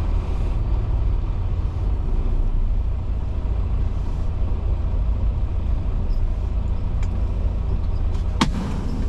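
Semi truck's diesel engine idling with a steady low rumble, heard from inside the cab, with a single sharp click near the end.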